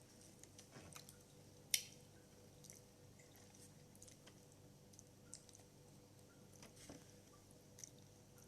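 Quiet close-up eating sounds: a person chewing food, with scattered small clicks and one sharper click a little under two seconds in.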